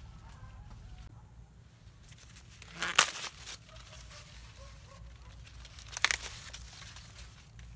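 Two brief tearing, crackling rustles about three seconds apart, the loudest sounds here, with faint chirps in the background.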